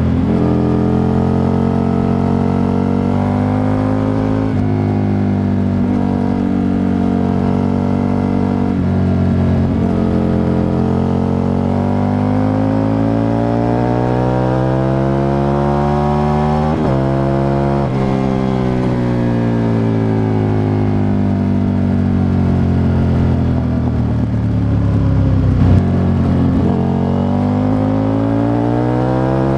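Aprilia RSV Mille 1000's 60-degree V-twin with an Arrow exhaust, heard from a microphone under the seat while riding. The engine revs up and drops back at gear changes about 4 and 9 seconds in, winds down over a long stretch in the middle, then pulls up again near the end.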